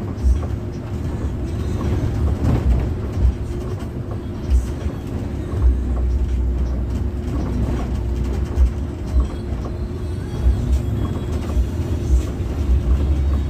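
Pelita Paradep intercity bus on the move, heard from inside: a steady low engine and road rumble with frequent short low thumps and jolts.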